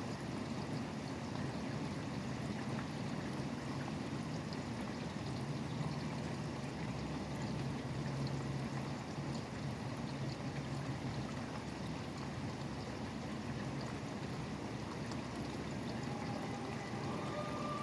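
Steady rainfall with the low hum of highway traffic beneath it. Near the end a faint falling wail begins.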